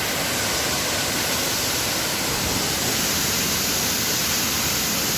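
Huluganga Ella waterfall: water falling and rushing in a steady, even roar.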